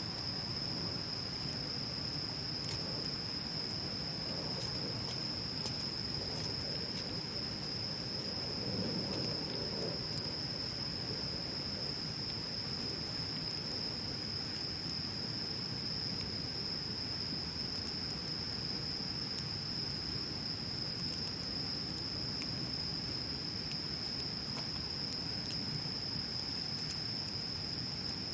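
Wood bonfire burning with a steady low rush and occasional faint crackles, under a continuous high-pitched insect trill.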